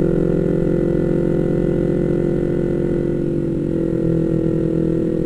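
Yamaha MT-25's 249 cc parallel-twin engine running steadily while the bike is ridden, its note shifting slightly about four seconds in.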